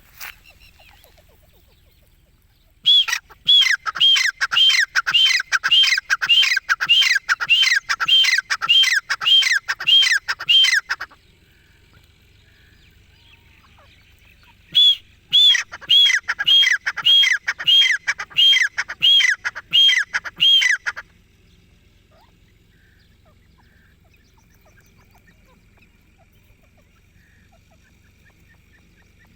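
Grey francolin (desi teetar) calling: a loud, rapid series of ringing notes, about two a second, each note dropping sharply in pitch. There are two bouts, one of about eight seconds and then, after a pause, one of about six seconds.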